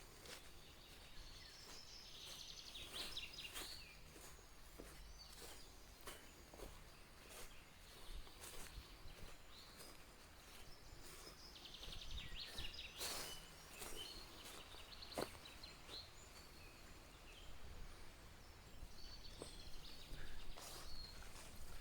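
A small bird's rapid trill, heard twice about ten seconds apart, over scattered faint clicks and snaps.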